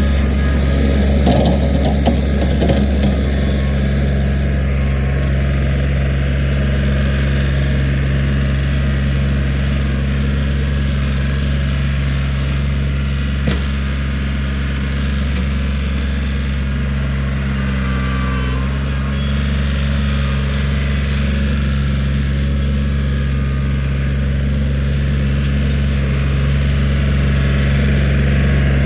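Kioti 4010 tractor's diesel engine running steadily under load while working the backhoe. There is brief clattering about a second in and a single sharp knock about halfway through.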